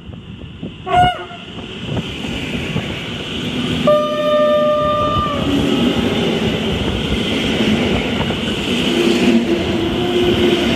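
Electric multiple unit passing close by a station platform: a short rising toot of its horn about a second in, then a steady horn blast about four seconds in lasting roughly a second and a half, over the growing rumble of the train running past.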